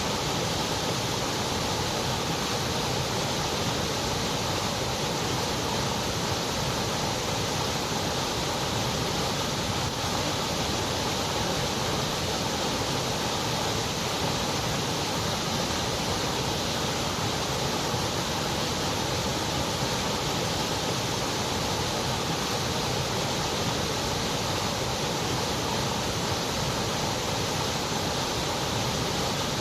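Continuous white noise: an even, unchanging hiss with no breaks or other events.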